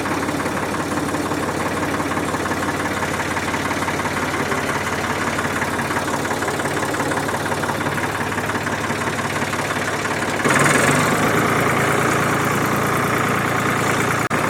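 Three-cylinder engine of a 1967 Ford 2000 tractor running at idle. About ten seconds in it suddenly gets louder and harsher and stays that way.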